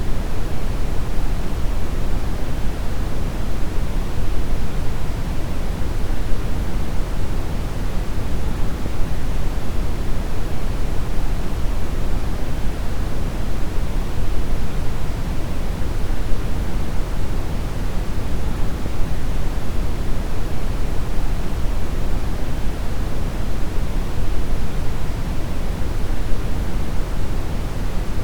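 Steady brown noise: a continuous, even rushing hiss, weighted heavily toward the deep end, without any change.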